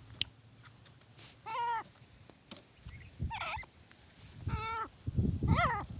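A francolin (titar) giving four short calls, each an arched note that rises and falls in pitch, spaced a second or two apart. Low thumps come near the end.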